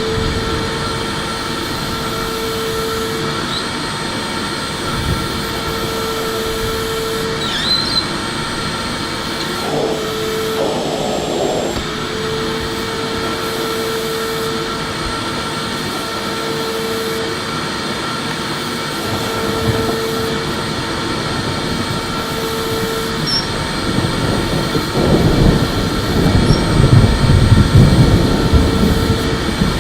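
Electric vacuum cleaner running steadily: a constant whine over a hum and rushing air. In the last few seconds the sound turns louder and rougher in the low end.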